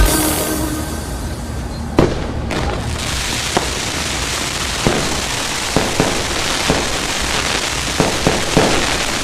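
New Year's fireworks going off all over a city: scattered booms and pops, the loudest one about two seconds in, over a continuous crackle that thickens from about three seconds in.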